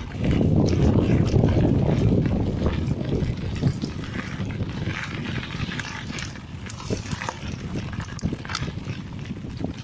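Mountain bike riding over a rough dirt trail: tyre crunch and rattling with many irregular knocks. Wind rumbles on the action camera's microphone, loudest in the first few seconds.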